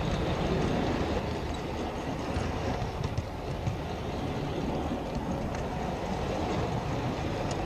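G-scale model locomotive running along garden railway track: a steady rumble of wheels on rails and electric motor that cuts off suddenly near the end.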